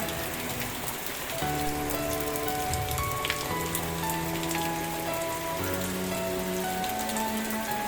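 Steady rain falling, with scattered sharper drop ticks, over soft music of slow held chords that change every second or two.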